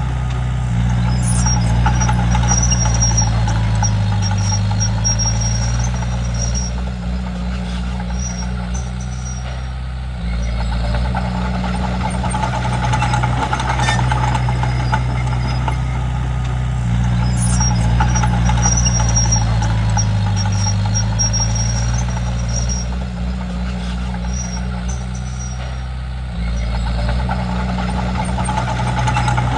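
Komatsu D31P bulldozer's diesel engine working through repeated push cycles. The engine note sags under load about four seconds in and again about twenty seconds in, and shifts abruptly about ten and twenty-six seconds in. Intermittent high squeaking runs alongside while the machine moves.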